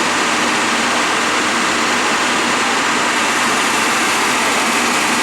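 Heavy vehicle engine running steadily at idle under a loud, even hiss that does not change.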